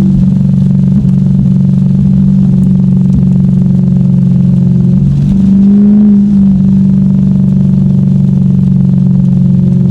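Lexus car engine running at steady revs, with one short rise in revs about five seconds in before it settles back to the same steady note.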